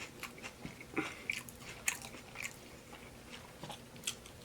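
Close-miked chewing of taco salad: irregular wet mouth clicks and crunches, with a few sharper crunches about one and two seconds in and near the end.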